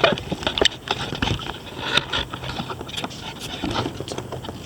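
Kayak paddle working in very shallow water: irregular splashes and drips with scattered small clicks and knocks.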